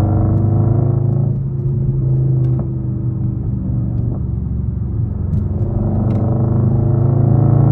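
Straight-piped Infiniti M56's 5.6-litre V8 exhaust with a deep, steady rumble. It eases off for a few seconds in the middle and builds again near the end.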